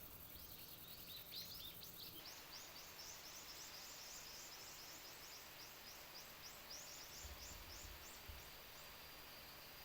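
Faint outdoor nature sound: a quick, even run of high chirps, about three or four a second, that stops a little over eight seconds in. A thin steady high tone takes over near the end.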